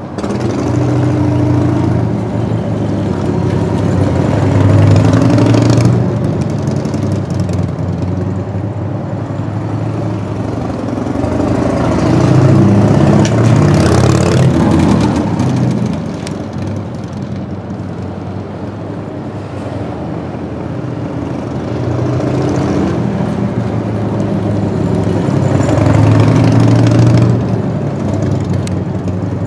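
Harley-Davidson FXSTS Springer Softail's 1340 cc Evolution V-twin running with open throttle swells. The revs rise and fall back three times over an idle.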